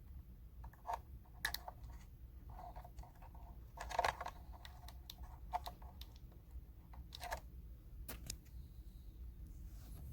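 Irregular light plastic clicks and knocks from handling the RC boat's battery, plug and charger, the loudest about four seconds in.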